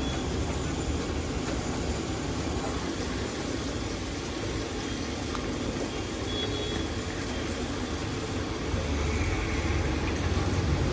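Steady low rumble of street traffic with an engine idling, growing louder near the end.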